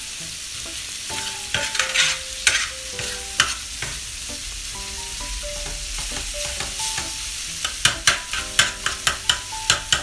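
Mutton liver masala sizzling on a tawa griddle while a metal spoon scrapes and stirs it across the pan, in runs of quick strokes, the fastest in the last two seconds.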